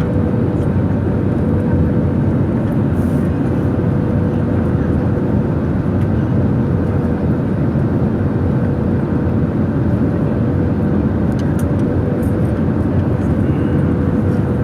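Steady airliner cabin noise on approach for landing: the dense roar of engines and airflow heard from inside the cabin, with a faint steady tone running through it.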